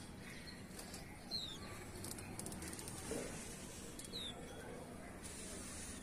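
Indian white-eyes calling: two short, thin, high chirps falling in pitch, about three seconds apart, with a brief run of faint ticks between them over a steady soft hiss.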